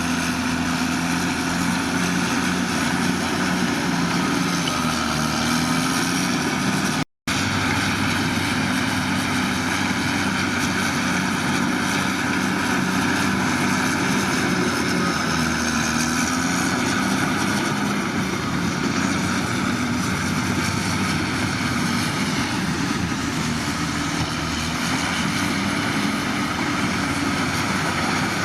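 Heavy construction machinery's diesel engine running steadily, its pitch dipping briefly twice as the load changes, with a momentary break in the sound about seven seconds in.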